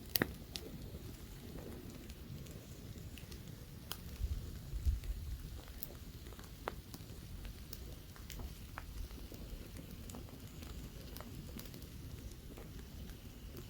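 Campfire burning with scattered sharp crackles and pops, over a low rumble of light wind that swells about four seconds in.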